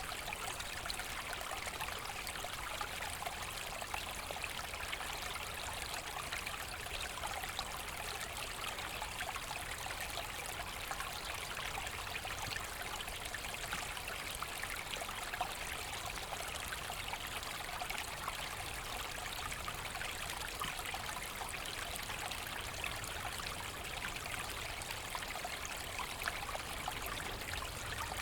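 A small forest brook burbling and trickling over stones, a steady running-water sound with fine splashing detail.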